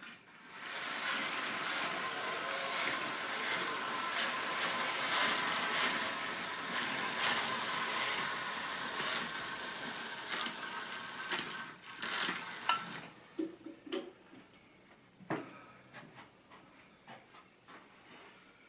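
Model railway train running along the track: a steady rattling rumble of wheels on rail for about eleven seconds, which then falls away into a few scattered clicks and knocks.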